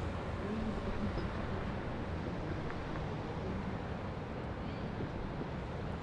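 Steady city ambience along a river: a continuous low hum of distant traffic, with faint indistinct sounds that may be far-off voices.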